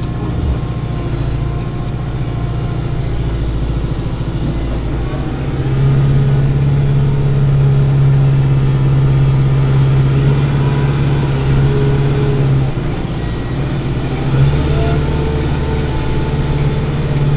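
Kubota Grand L tractor's diesel engine running under load, heard from inside the cab. It picks up about six seconds in, eases off briefly around thirteen seconds, then comes back up.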